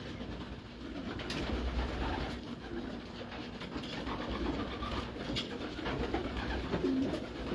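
Racing pigeons cooing at a low level, with a few faint clicks.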